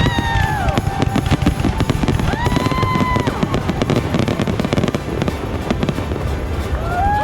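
Fireworks going off in a dense, rapid string of bangs and crackles. A few held high tones, each about a second long, sound over them near the start, in the middle and near the end.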